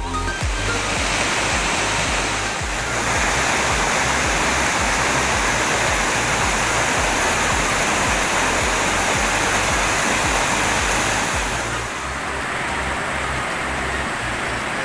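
Waterfall with a steady, loud rush of falling water. A music track fades out in the first second.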